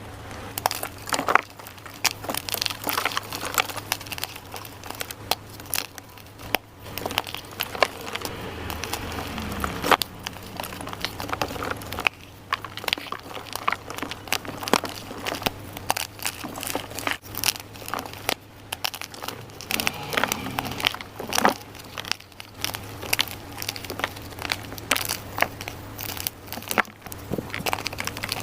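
Dyed gym chalk being crushed and crumbled: a dense, uneven run of dry crunches and crackles, over a low steady hum.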